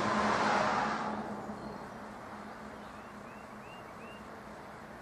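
A car passing on the road, its tyre and engine noise loudest at first and fading away over about two seconds.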